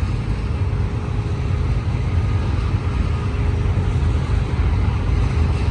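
Freight train of auto-rack cars rolling past at speed: a steady, heavy rumble of steel wheels on the rails, with a faint steady ringing tone over it.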